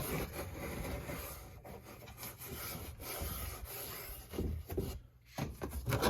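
Rubbing and scraping handling noise that runs for several seconds, followed by a few short knocks near the end.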